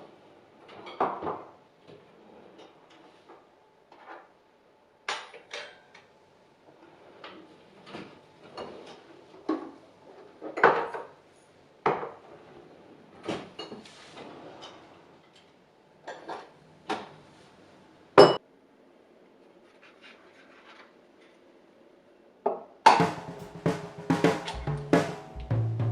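Dishes and utensils clinking and knocking at irregular intervals as they are handled, with one sharp clack about two-thirds of the way through. Music with bass and drums comes in near the end.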